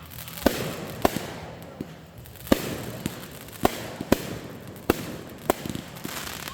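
Fireworks going off: a string of sharp bangs, about one a second, over a steady crackling haze.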